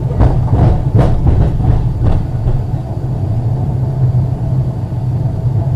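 Ex-Liverpool Corporation tram 869 running along the track: a steady low rumble, with a few sharp knocks in the first two seconds or so.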